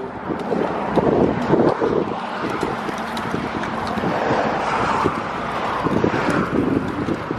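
Wind buffeting the microphone, a constant rumble with a hiss that swells in the middle and fades near the end.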